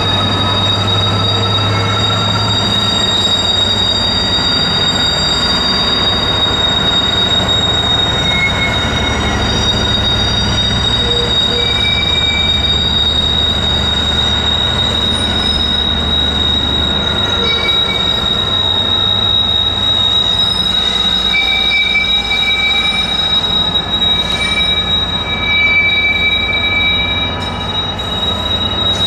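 Train wheels squealing on the rails as a train rolls past, over a low rumble. A steady high-pitched squeal runs throughout, with further squealing tones coming and going.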